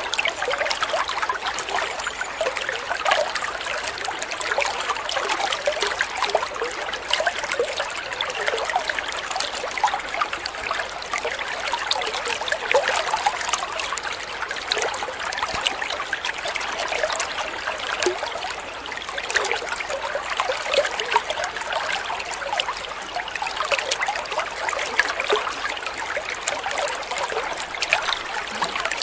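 Stream water trickling and babbling in a steady flow.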